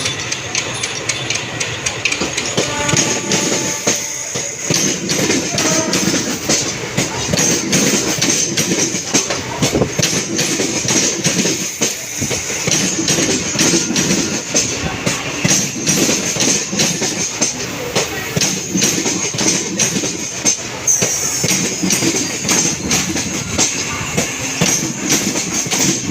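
Train running on the tracks, its wheels clattering steadily over the rail joints with a continuous rumble.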